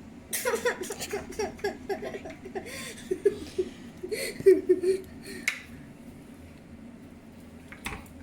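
A child giggling and laughing in quick short bursts for about five seconds, with a few light clicks mixed in.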